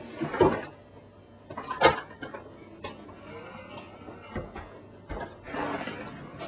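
Two sharp knocks or thumps, about half a second and two seconds in, among fainter clicks and handling noises, with a rustling shuffle near the end.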